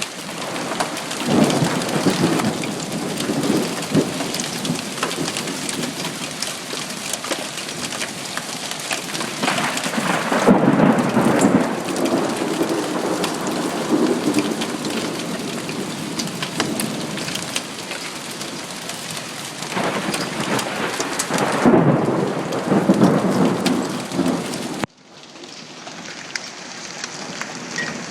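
A hailstorm: a dense, steady clatter of hailstones pelting hard surfaces along with heavy rain. Low rumbles of thunder swell and fade three times. A few seconds before the end the sound drops abruptly to a quieter, duller patter.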